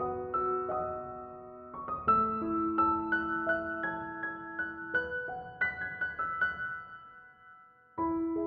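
Electronic keyboard playing a piano-like melody, an instrumental passage of a Gujarati devotional song. The tune fades almost to nothing about seven seconds in, then starts again just before the end.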